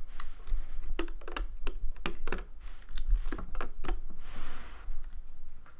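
Rubber loom bands slipping off the plastic pins of a Rainbow Loom as a finished bracelet is lifted away: an irregular run of small sharp clicks and taps, with a short rustle a little after four seconds in.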